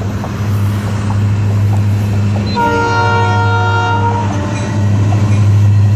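Florida East Coast freight train's two diesel locomotives passing with a steady low engine drone. About two and a half seconds in, a locomotive air horn sounds one chord of several notes for about a second and a half.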